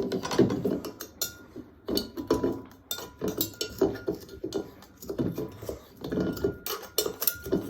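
Kitchen utensil knocking and clinking against a dish in a run of irregular knocks, some ringing briefly.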